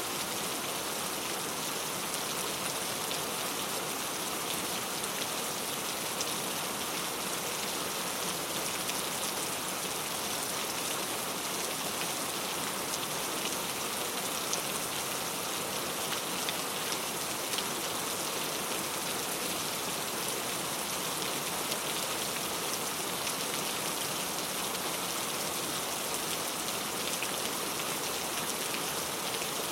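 Steady rain falling without a break: an even hiss with fine scattered drop ticks, and no thunder.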